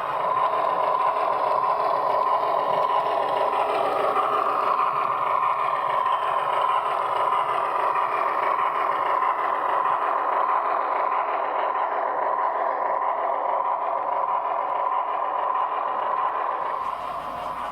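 HO scale model PRR E6 steam locomotive running with its Paragon4 sound decoder playing steam running sounds through the small onboard speaker: a quick, even chuffing over a steady high tone.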